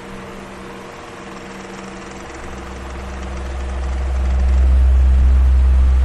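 Electric fan running steadily, with motor hum and the rush of its airflow. A low rumble swells from about three seconds in, then begins to ease near the end.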